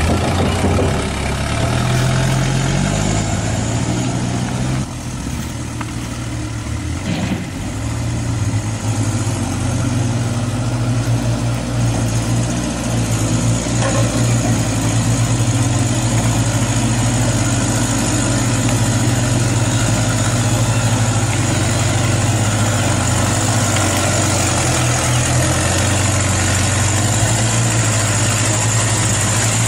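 Radio-controlled model dump truck running, a steady engine-like hum with a high whine. Its pitch shifts in the first few seconds and then holds level.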